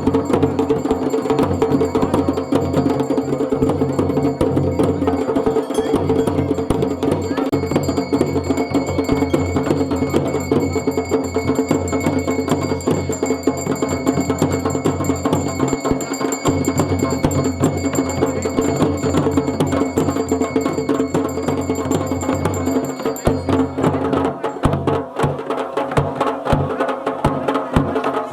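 Garhwali dhol and damau drums played continuously in a fast traditional rhythm, with dense rapid strokes.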